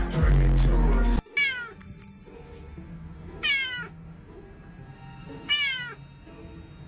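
Music with a heavy bass beat that cuts off suddenly about a second in, followed by a cat meowing three times, about two seconds apart.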